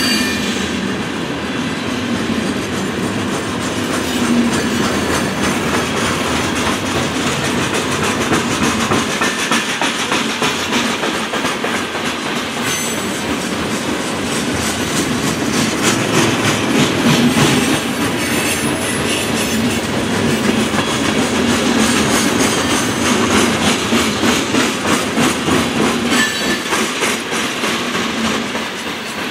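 Freight cars of a long train rolling past, tank cars and centerbeam lumber flatcars, their steel wheels clicking over the rail joints in a rapid, steady clatter.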